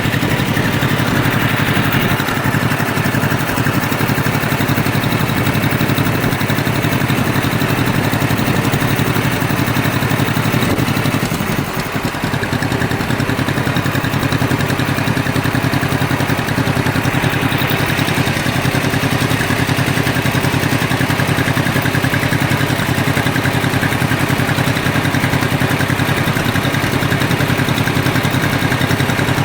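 Tractor engine running steadily, heard close up from the tractor during a ride, with a brief slight dip about twelve seconds in.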